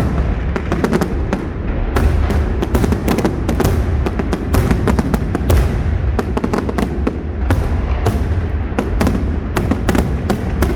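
Large fireworks display: a dense string of sharp cracks, several a second, over a continuous low rumble of booming shells.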